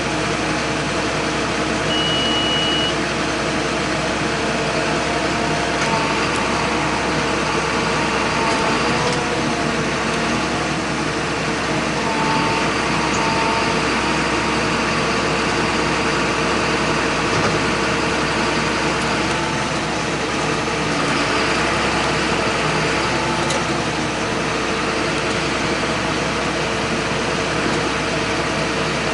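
John Deere 8100 tractor's six-cylinder diesel engine running steadily, with no change in speed.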